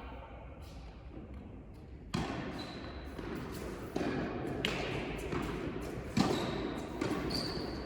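A tennis ball being struck by rackets and bouncing on an indoor court during a rally: several sharp hits a second or so apart, each echoing in the hall.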